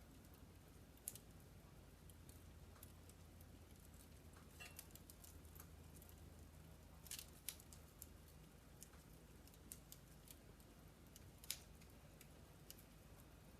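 Logs burning in a wood fireplace, crackling softly: scattered sharp pops, the loudest about a second in, around seven seconds in and near the end, over a faint low steady hum.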